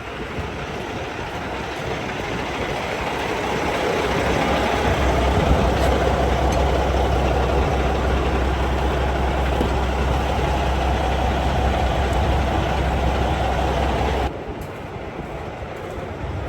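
Heavy vehicle engine running steadily close by, growing louder and then cutting off suddenly near the end.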